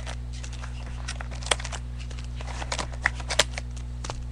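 Trading cards and their packaging being handled: light rustles and a scattering of small sharp clicks and snaps, over a steady low electrical hum.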